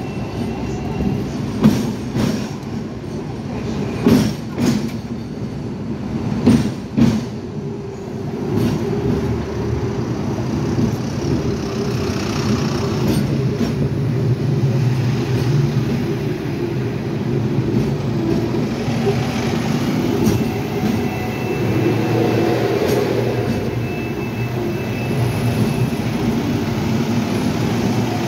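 Hong Kong double-decker tram running on its rails. There are several sharp clacks of the wheels in the first seven seconds or so, then a steady rumble.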